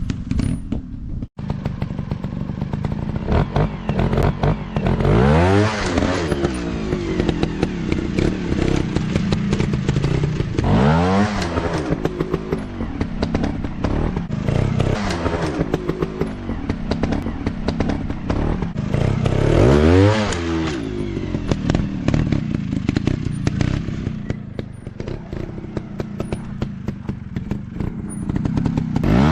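Motocross dirt bike engines running hard, revving up and down in pitch several times, with sharp surges about 5, 11 and 20 seconds in.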